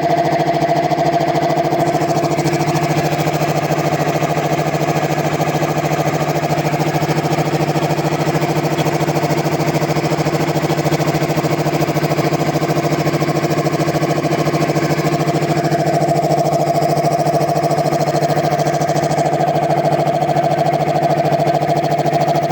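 Air compressor with a newly fitted compressor pump head running steadily on a working test: a continuous, even mechanical drone that does not change in pitch or level.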